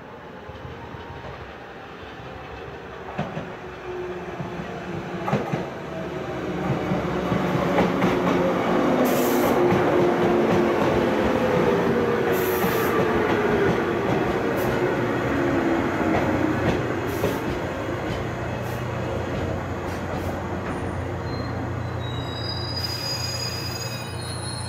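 Electric local passenger train running past, getting louder a few seconds in, with a slowly falling whine and wheel squeal, then staying steady near the end.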